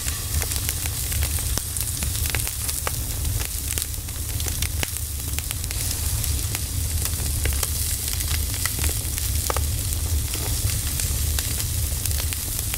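Firewood fire crackling: a steady hiss with many sharp pops and ticks, over a steady low rumble underneath.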